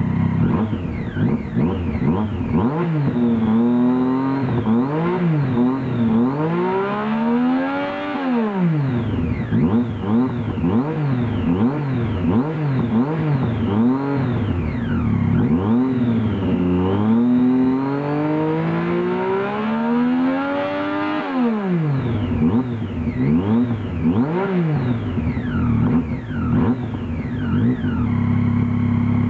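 Triumph Street Triple R's three-cylinder engine through a QD Magnum exhaust, revved again and again in quick throttle blips from idle. Two longer revs climb high and drop back, and the engine settles to a steady idle near the end.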